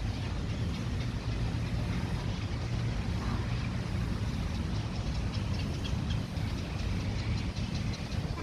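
Outdoor park ambience: a steady low rumble with faint high chirps and a faint ticking over it.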